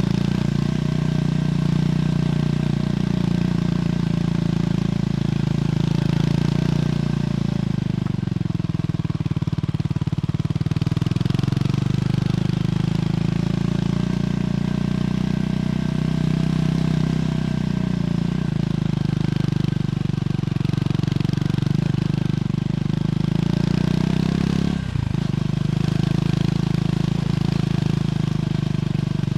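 Triumph Scrambler 400X's single-cylinder engine running through its stock exhaust while under way. The engine note steadily eases down and picks back up several times with the throttle, with one brief dip near the end.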